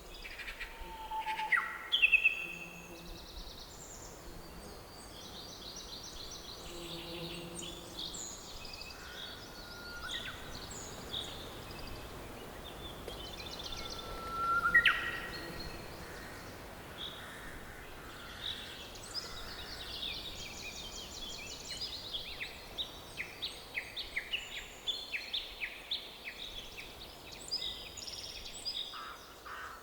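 Several forest birds singing and calling over a faint steady background hiss, with two louder calls about two seconds in and midway through, and a rapid run of short repeated chirps through the second half.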